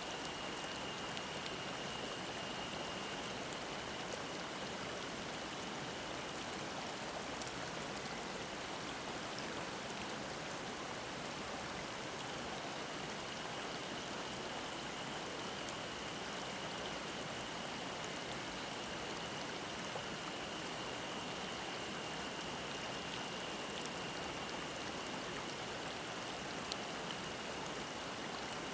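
Mountain stream babbling steadily over rocks. A cicada sings over it in a steady, high, even drone.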